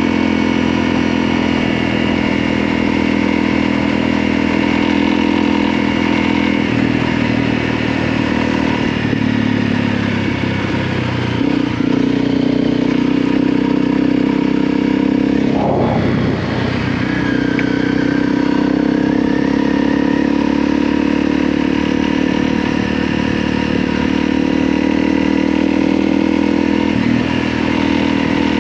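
Motorcycle engine running under way, its note stepping up or down several times, with a brief break in the sound about halfway through.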